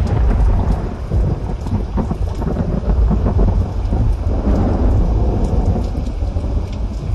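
Thunder rumbling through a rainstorm: a long, loud, continuous low rumble over a steady hiss of rain.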